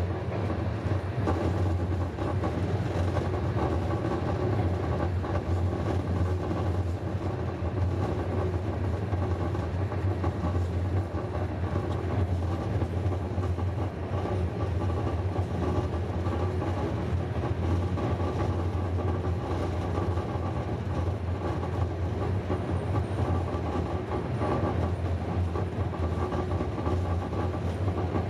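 Passenger train running at steady speed, heard from on board: a continuous low rumble of the wheels and carriage with rattling over the rails.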